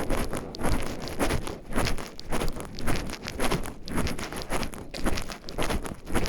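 Footsteps walking steadily on a forest path, a little under two steps a second, each with a crunch underfoot.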